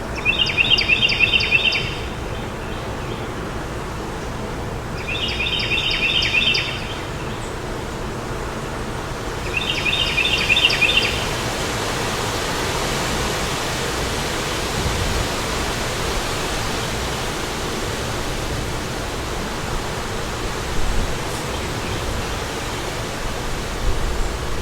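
Steady wind noise with a bird singing three short, fast trilled phrases about four to five seconds apart in the first half; the wind swells slightly after the third phrase.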